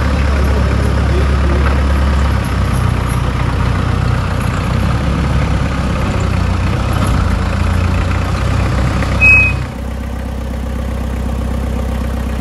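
Modified Maruti Suzuki Gypsy's engine running as the jeep is driven slowly. About nine seconds in there is a short, loud, high-pitched beep. The sound then changes to a quieter, steady idle.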